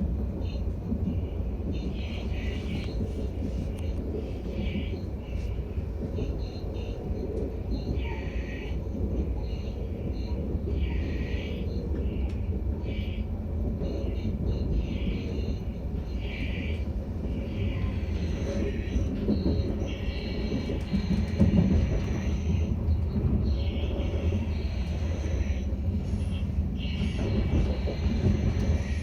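Regional express train running with a steady low rumble. Short higher-pitched hissing noises come and go every second or two and grow a little louder in the second half.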